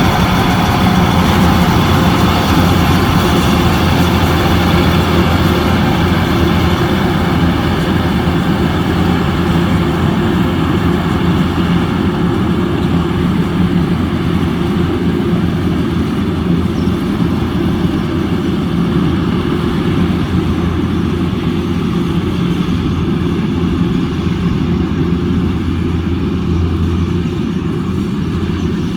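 Rice harvester's engine running steadily with a loud, low hum. The sound turns a little duller and quieter in the second half.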